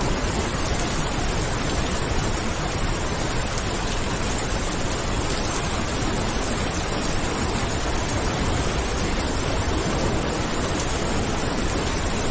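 Steady heavy rain falling, an even hiss with no thunderclap.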